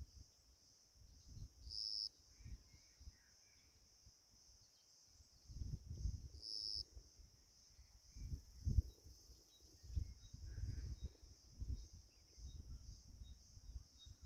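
Faint, steady high-pitched chirring of insects, swelling briefly about two seconds in and again near six seconds, over irregular low rumbles and a few faint chirps.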